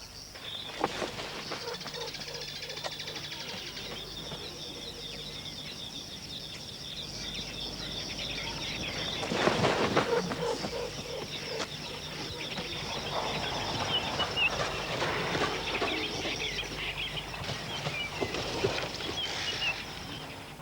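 Savanna ambience: a steady high insect chirring with birds chirping over it, busier and louder from about ten seconds in.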